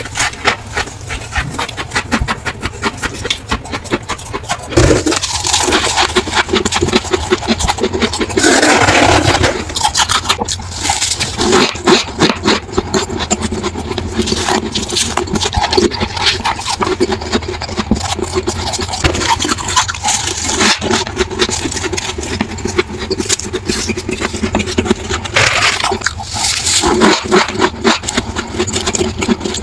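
Close-miked crunching and scraping of refrigerator frost ice, a dense run of sharp crackles as it is scraped off and chewed bite after bite.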